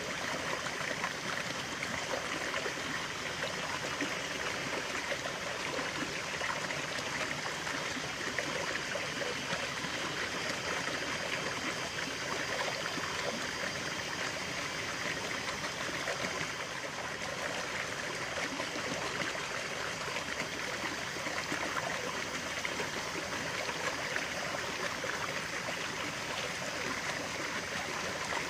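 A small stream of running water, flowing and trickling steadily.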